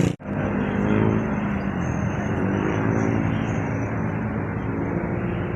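Road vehicle engine running as traffic passes, its pitch sliding up and down over steady road noise. There is a brief dropout just after the start.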